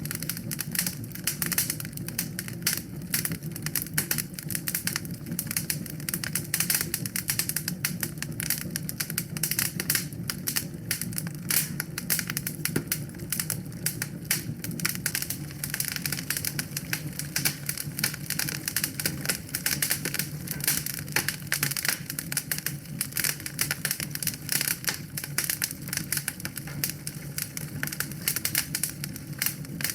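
Wood fire in a fireplace crackling, with a constant rapid stream of small pops and snaps over the low rumble of the flames.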